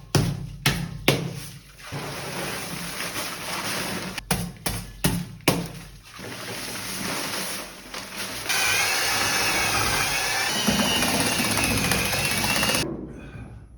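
Plastering work: knocks and clatter of tools and materials. About two-thirds of the way in, a power tool starts and runs steadily with a wavering whine, then cuts off suddenly near the end.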